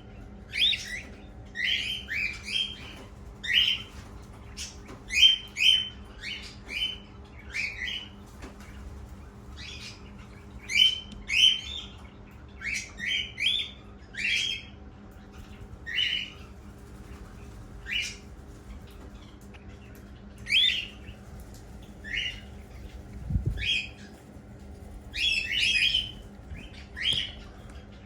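Cockatiel chicks, about two weeks old, making repeated short rasping begging calls, often two or three close together. A low hum runs underneath, with one soft thump near the end.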